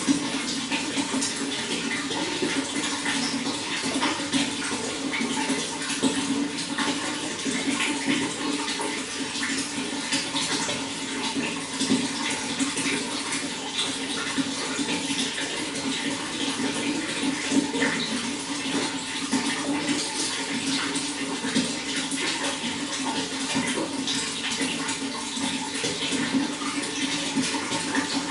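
Running water flowing steadily: a continuous even rush with many small splashes.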